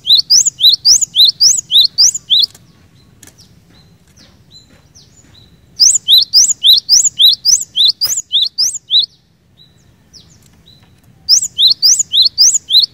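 Cinereous tit (glatik batu) singing a rapid, loud song of repeated two-note phrases, a high rising note then a lower one, in three bouts of two to three seconds each, with a few soft notes in the pauses.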